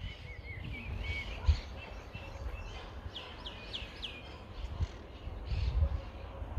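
Small birds chirping and calling in short notes, with a quick run of chirps in the middle, over a low rumble on the microphone.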